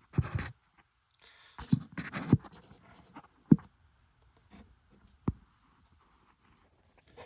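Handling noises: scraping and rustling in the first couple of seconds, then a few short sharp knocks with quiet gaps between.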